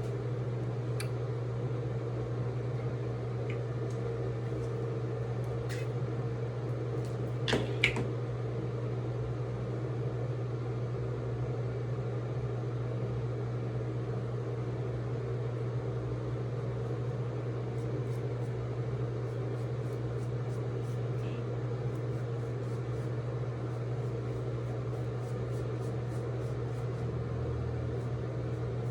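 Steady low machine hum throughout, with a few faint clicks about six and eight seconds in.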